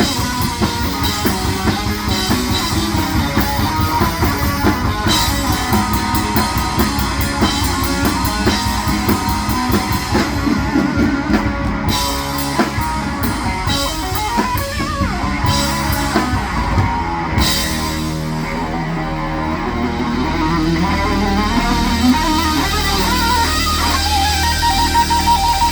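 Rock band playing: electric guitar over a drum kit, the drums thinning out about two-thirds of the way through while held guitar notes carry on.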